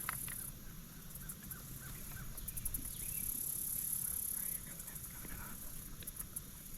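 Marsh ambience: high-pitched insects trilling in quick pulsing runs, steady for a stretch in the middle, with faint scattered bird calls and a low wind rumble.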